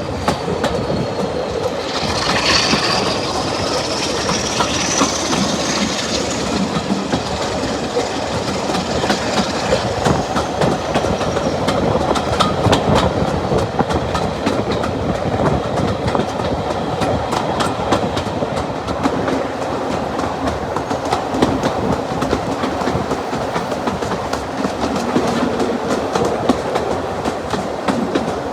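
A train running along the line, its wheels clicking steadily over the rail joints. A high-pitched squeal rises and then falls away over the first several seconds.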